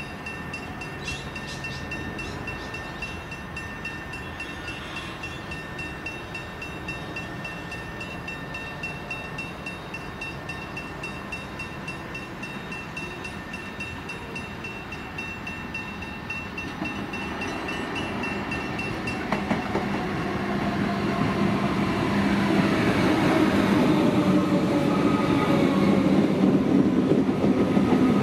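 Comeng electric multiple-unit train approaching and pulling into the station platform. Its rumble grows steadily louder from a little past halfway, with a whine changing in pitch over it near the end.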